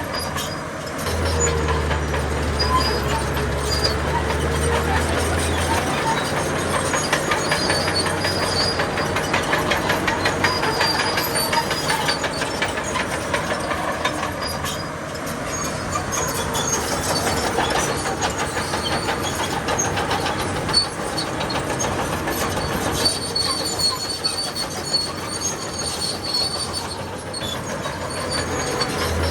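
A crawler bulldozer working: its diesel engine runs under load while the steel tracks clank and squeal. A low steady drone stands out for the first few seconds.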